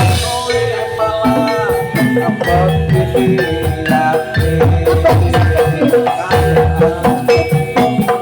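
Gamelan music for a Jathilan horse dance, played loud through a sound system: a steady rhythm of drum beats under ringing metallophone notes.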